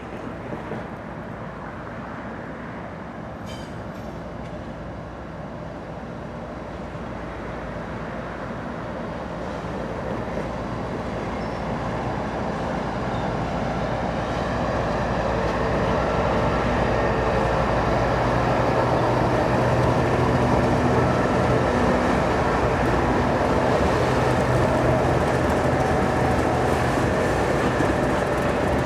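Diesel locomotives of a freight train approaching and passing close, the engine drone growing steadily louder, then holding.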